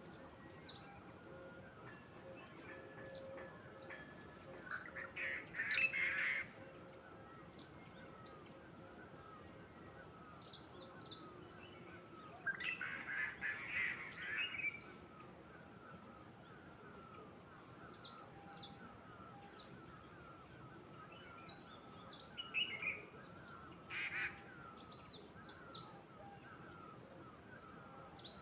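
Birds singing outdoors: one bird repeats a short, high song phrase every two to three seconds, while another calls louder and lower twice, over a faint continuous twittering.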